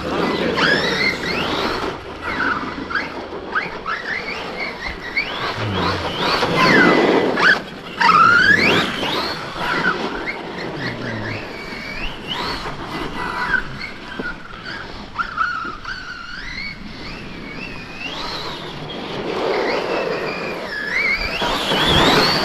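Electric RC monster trucks being driven hard: the motors whine up and down in pitch as they are throttled and let off, over the rush of tyres on the ground, loudest around a quarter and again near the end.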